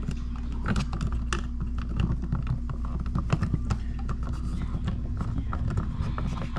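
Irregular small clicks and knocks from hands working an electrical wall receptacle, pushing its wires back into the box and seating the outlet, over a steady low hum.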